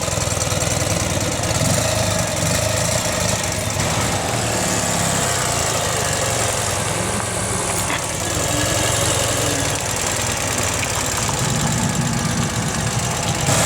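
An engine idling with a steady, even low rumble.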